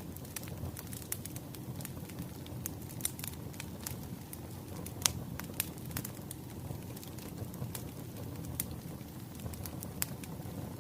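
Firewood crackling as it burns: a steady low rush with frequent irregular sharp pops, a louder pop about five seconds in.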